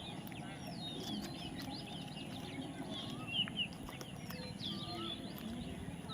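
Birds chirping: many short chirps that rise and fall in pitch, scattered irregularly over a steady background noise.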